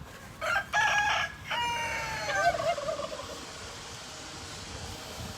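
A rooster crowing once: two short notes and then a long, drawn-out note that falls in pitch near its end.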